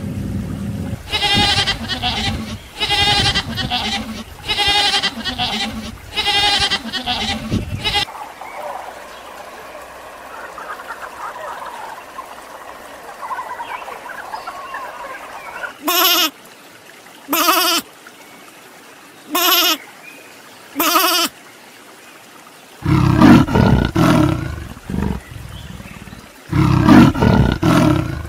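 A series of animal calls from different animals in turn: five repeated pitched calls about two seconds apart, then after a quieter stretch four short calls, and near the end two bouts of loud, deep calls.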